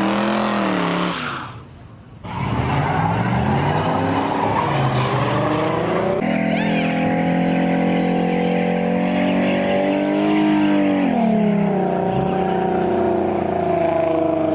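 Car engine revving hard, its pitch climbing and falling, then held at high revs before dropping and climbing again. Over it runs the hiss of tyres spinning in a burnout. The sound cuts out briefly a second or two in.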